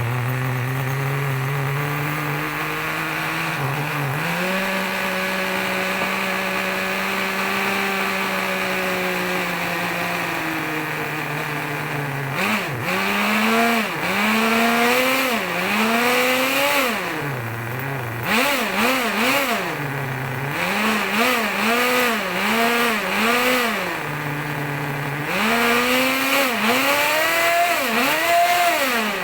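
Small single-cylinder glow-fuel (nitro) engine of a 1:10 scale RC buggy running. It idles steadily and its pitch steps up a little about four seconds in. From about twelve seconds the throttle is blipped again and again, the pitch rising and falling with each rev, with a short steady idle between blips near the end.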